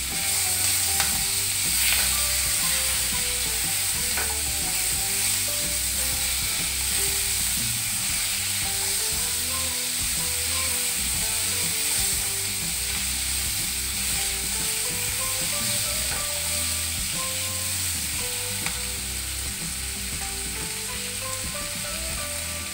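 Onion, garlic and tomato sizzling steadily in hot oil in a nonstick frying pan, with a spatula stirring them now and then.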